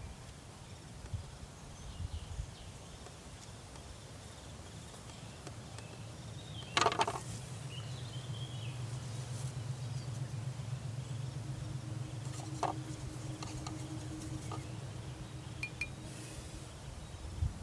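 A single sharp clink about seven seconds in, over a steady low hum that builds from about four seconds in, with a few faint high chirps.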